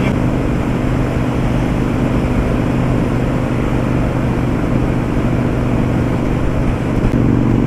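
Victory Vegas Jackpot V-twin motorcycle engine running steadily at highway cruising speed, about 140 km/h, with wind rushing past the microphone. The engine note shifts slightly near the end.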